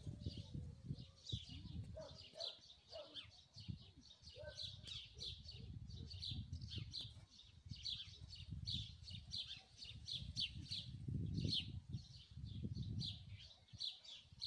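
Small birds chirping steadily in many short, quick, high notes, over a low rumble that comes and goes.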